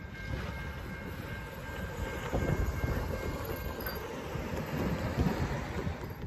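Amtrak passenger train rolling past, with a steady rumble of wheels on the rails that swells twice. A faint repeated ringing runs through the first part.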